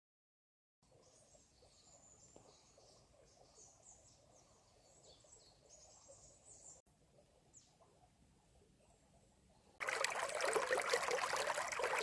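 Faint outdoor ambience with small birds chirping. About ten seconds in, a much louder rushing noise starts suddenly and runs on to the end.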